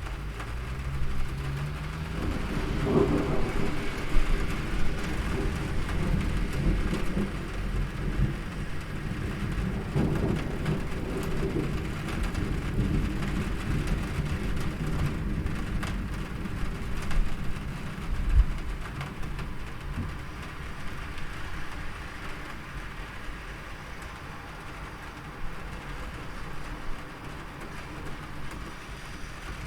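Steady rain falling, with a long rolling rumble of thunder that builds a couple of seconds in and slowly dies away over the next twenty seconds or so.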